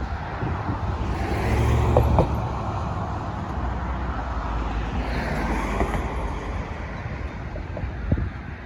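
Steady low rumble of passing vehicles, with two swells of rushing noise as vehicles go by, about a second in and again about five seconds in, and a few sharp clicks.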